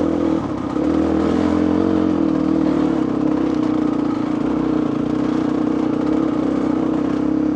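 Two-stroke dirt bike engine running steadily in first gear over rough, rocky trail, with a brief dip in revs about half a second in.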